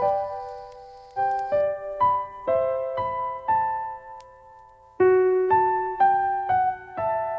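Soft solo piano music playing a slow melody of single notes and chords, pausing briefly about two-thirds of the way through before the melody resumes.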